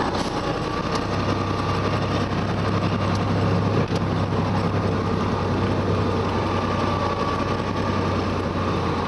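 Heavy timber truck's engine running steadily while driving loaded with logs, with a low even hum and road noise.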